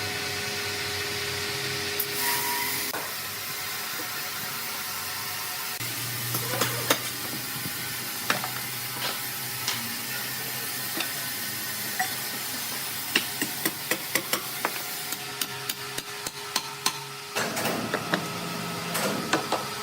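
Wood-processing machinery running with a steady hum, broken by irregular sharp knocks and clatter that come thick and fast in the last third.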